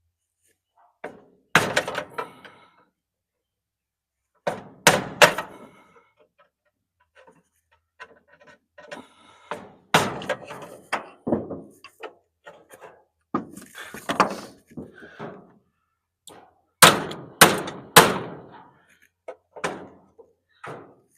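Irregular hard metal-on-metal blows, about a dozen, as a screwdriver is struck against a stuck fastener on an electric clothes dryer to bust it loose, with three quick strikes near the end.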